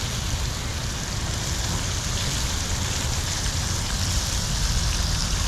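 Bacon strips frying in a hot pan, a steady sizzle.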